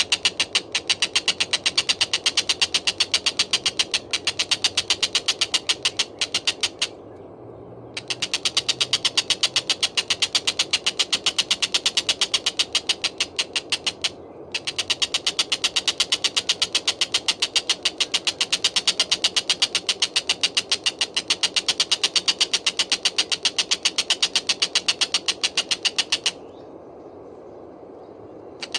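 Tengkek buto kingfisher giving a fast, high, chattering rattle of rapid repeated notes. It calls in three long runs, with short breaks about seven seconds in, about fourteen seconds in, and near the end.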